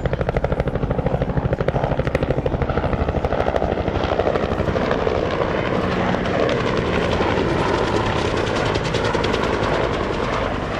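A helicopter's two-blade main rotor beating in rapid, even thumps over the turbine's whine. After about four seconds the thumping blends into a steadier rotor and engine noise.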